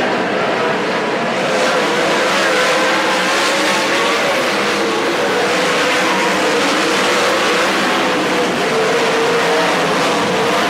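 A pack of sprint car engines running hard together at race speed, making a loud continuous sound whose pitch wavers up and down as the cars rise and fall on the throttle around the track.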